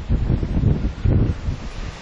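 Strong gusting wind buffeting the microphone: a loud, uneven low rumble that swells and drops with the gusts.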